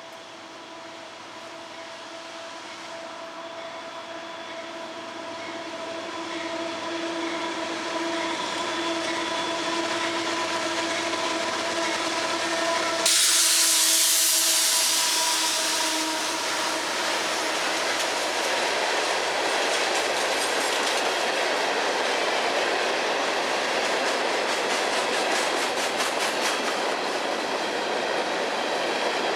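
CSX freight train approaching behind two diesel locomotives, a steady pitched drone growing louder for about thirteen seconds. As the locomotives pass there is a sudden loud hiss lasting a few seconds. Then the freight cars roll by with a steady rumble and wheels clicking over the rail joints.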